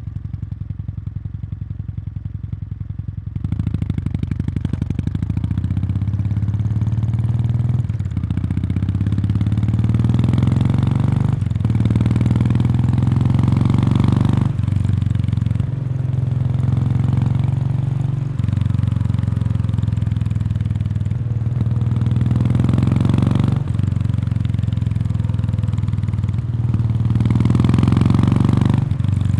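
Kawasaki Meguro K3's 773 cc air-cooled parallel twin through its stock exhaust, heard close to the muffler outlet. It idles for about three seconds, then pulls away and accelerates. The engine note rises and dips briefly every two to three seconds, as with gear changes.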